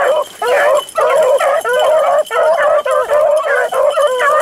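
Pack of beagles baying in full cry, several voices overlapping almost without pause: hounds running a rabbit's scent trail.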